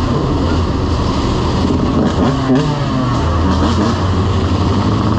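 Several motorcycle engines running and revving, their pitches rising and falling over one another, over a steady low drone.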